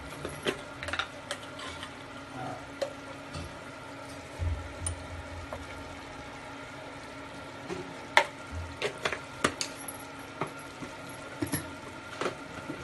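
A metal utensil clinking and scraping against a cooking pot while stirring, in irregular knocks, the sharpest about eight seconds in, over a steady hum.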